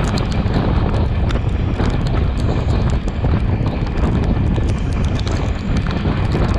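Sri Lanka Railways Class S11 diesel multiple unit running at speed, heard from an open window: a steady heavy rumble with a rapid, irregular clatter of wheel clicks on the rails.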